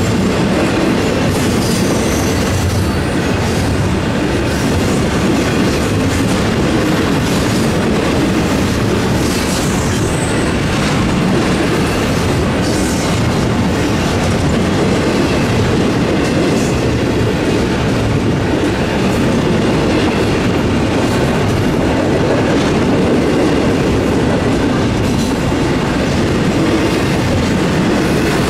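Double-stack intermodal freight cars rolling past at a grade crossing: a steady, loud rumble and clatter of steel wheels on the rails, with brief high wheel squeals now and then. The crossing's electronic bell rings behind it.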